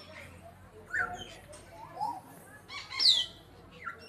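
Birds calling: short chirps and several quick notes that slide down in pitch, the loudest about three seconds in.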